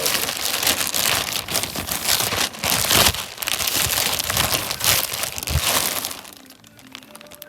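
Loud, dense crinkling and rustling of packaging being handled and rummaged through, dying away about six and a half seconds in.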